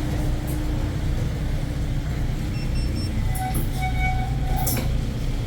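Steady low rumble of a moving vehicle, with a few short high-pitched tones and clicks in the second half.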